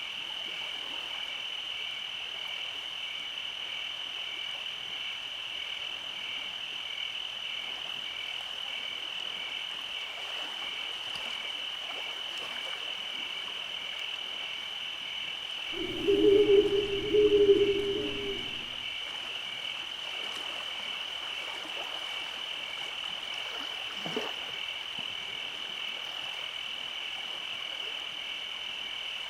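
A steady, high-pitched night chorus with a faint pulsing edge. About halfway through, one loud, low frog croak sounds in two parts.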